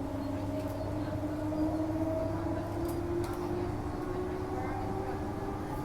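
Transperth A-series electric multiple unit on the move, heard from inside the train: a motor whine slowly rises in pitch over a steady low rumble of wheels on rails as the train picks up speed.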